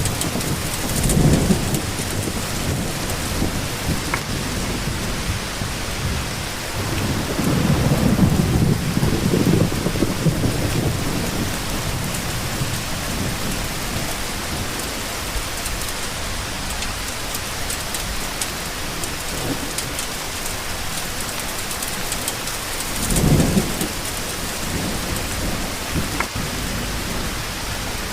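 Steady rain falling, with low rolls of thunder: one about a second in, a longer one about a quarter of the way through, and a short one near the end.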